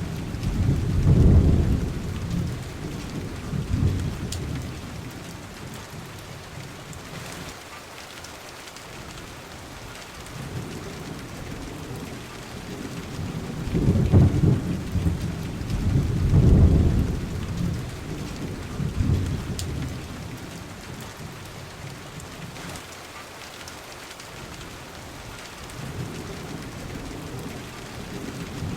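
Steady rain with rolling thunder. Low rumbles swell up near the start and die away, then a longer, louder roll of thunder comes in the middle, with fainter rumbles after it.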